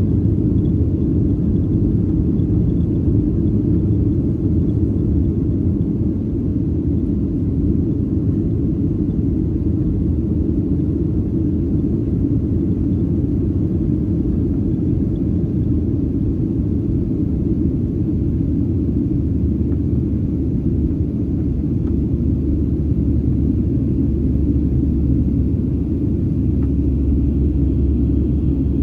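Cabin noise inside a Boeing 737-800: its CFM56-7B engines and the airflow heard as a steady low rumble with no change in pitch.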